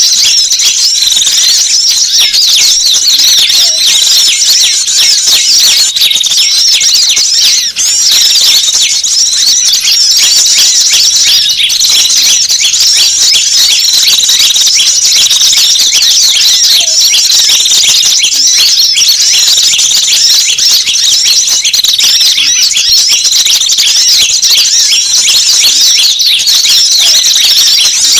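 A dense, unbroken chorus of many small wild birds chirping and trilling at once, high-pitched and loud: a mixed-species lure recording played to attract small wild birds.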